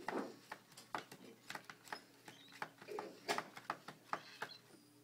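Scattered light clicks and scuffles, with a few faint short squeaks, from young cockatiel chicks moving about and pecking.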